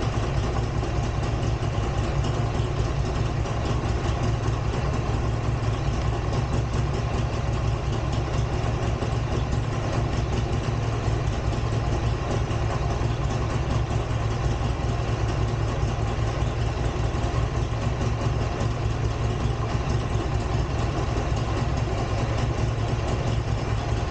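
Buell XB12R's air-cooled V-twin engine idling steadily, with no change in speed, while the stator's AC output is measured on its three legs.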